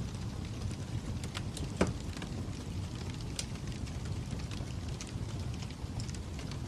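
Fire crackling: a steady low rumble with scattered sharp pops and snaps, one louder pop about two seconds in.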